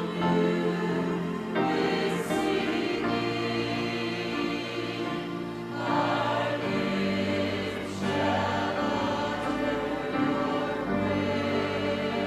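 A choir singing slow, sustained chords of sacred music, the harmony shifting every second or two.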